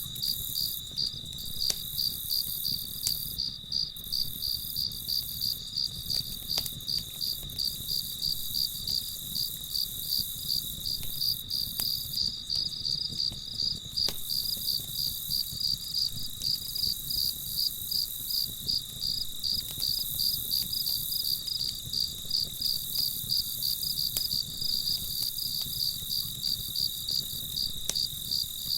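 Night crickets chirping in a steady, even rhythm of a few chirps a second over a constant high insect trill, with occasional faint crackles from a campfire.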